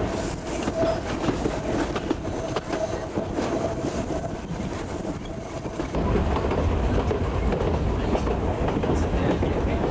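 Running noise of a steam-hauled passenger train heard from inside a wooden coach, with wheels clicking over the rail joints. About six seconds in, a louder deep rumble sets in and holds.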